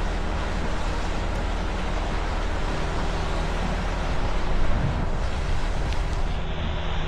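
Steady road and tyre noise with a low engine hum from inside a vehicle driving slowly, with one louder swell about four and a half seconds in.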